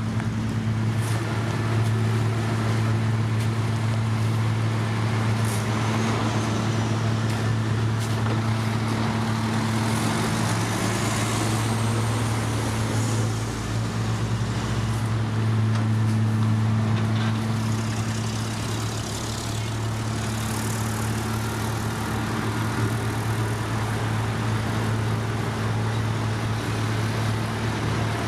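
Engine of heavy road-construction machinery running steadily with a constant low hum, its pitch briefly sliding about halfway through.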